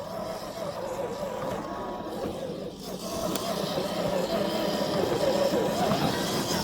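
Electric motor and gearbox of an FMS FJ40 RC scale crawler whining as it is driven over the forest trail, the pitch wavering up and down with the throttle and growing louder about halfway through.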